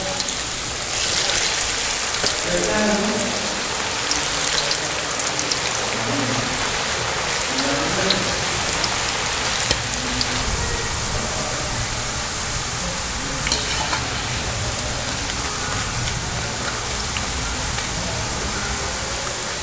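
Potato slices deep-frying in hot oil: a steady sizzle, with occasional light clicks of a wire skimmer stirring them in a metal karahi.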